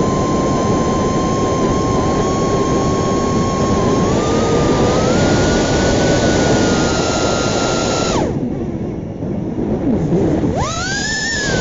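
BetaFPV Pavo 20 cinewhoop's brushless motors and ducted propellers whining in flight, heard up close from a recorder mounted on the drone; the pitch steps up about four seconds in. About eight seconds in the whine drops away sharply as the throttle is cut, then spins back up with a steep rising sweep about two and a half seconds later.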